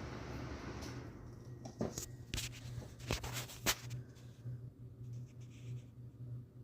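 A few sharp clicks and taps, as of small objects being handled, over a low steady hum.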